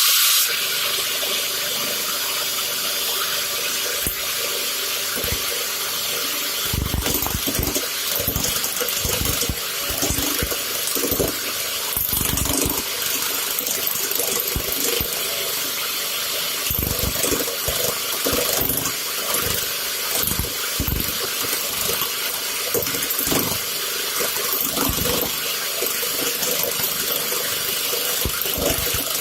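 Woodworking lathe running while a tool cuts a steel ball, a steady hissing scrape. From about a quarter of the way in, irregular short low knocks are heard as the tool chatters against the metal.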